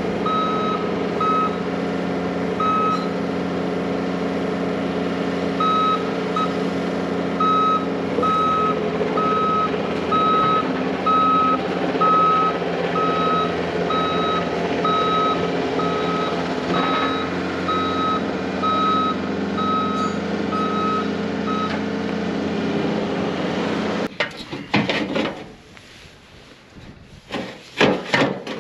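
Diesel heavy equipment running with its backup alarm beeping about once a second as it reverses. The beeping stops a little after 20 s, the engine cuts off about 24 s in, and a few scattered knocks and clicks follow.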